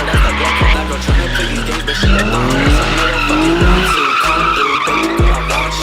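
Car tyres screeching in long wavering squeals during a street takeover, over a music track with a deep bass kick about twice a second.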